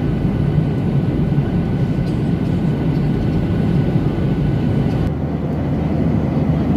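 Airliner cabin noise in flight: a steady low rumble of jet engines and airflow heard from inside the passenger cabin, shifting slightly in tone about five seconds in.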